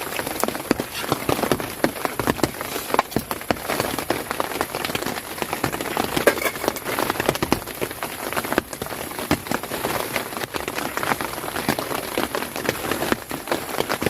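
Steady rain falling on a tent, many close drops hitting the fabric at once.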